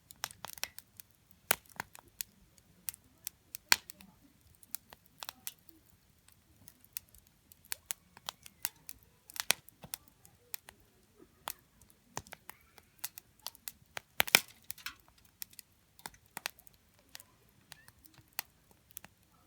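Wood campfire crackling: irregular sharp snaps several times a second, with a few louder pops, the loudest about fourteen seconds in.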